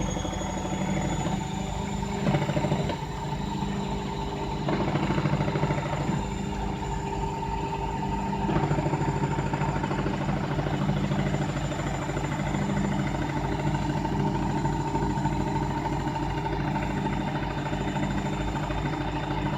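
Single-cylinder Pancar Motor diesel engine rigged to a washing machine, running steadily with a rapid, even chugging.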